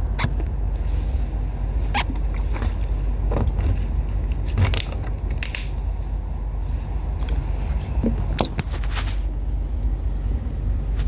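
Steady low rumble inside a train carriage, with scattered sharp clicks and creaks.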